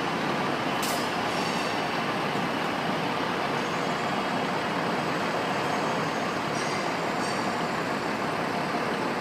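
A train running steadily in the station, with a few faint, brief high-pitched squeaks.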